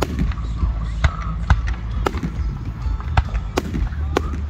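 Aerial fireworks shells bursting in the distance, sharp bangs at uneven intervals of about half a second to a second, over a steady low rumble.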